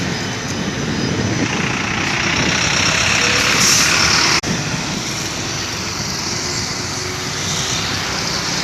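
Heavy truck driving past on a highway at speed, its engine and tyre noise building for a few seconds. The sound breaks off abruptly for an instant about four seconds in, then steady road noise carries on.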